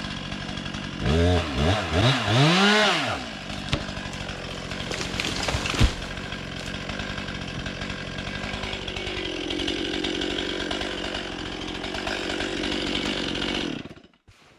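Chainsaw engine revved up and down three times, then running steadily, while firewood is being cut. The sound cuts off abruptly near the end.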